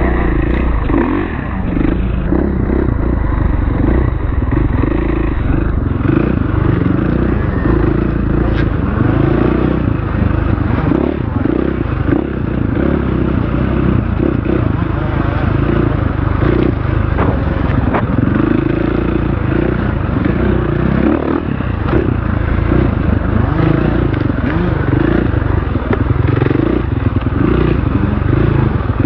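Off-road dirt bike engine running under load on a trail, its pitch rising and falling repeatedly as the throttle is worked.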